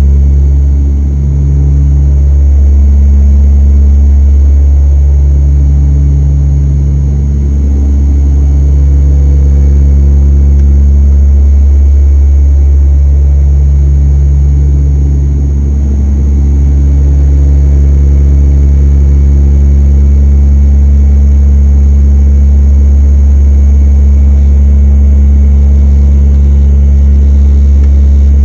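Cabin of a DHC-8-200 (Dash 8) beside the propeller: the Pratt & Whitney PW123 turboprops and four-bladed propellers make a loud, steady, deep drone. Humming tones above it slowly swell and fade every few seconds, the beat of the two propellers turning at slightly different speeds.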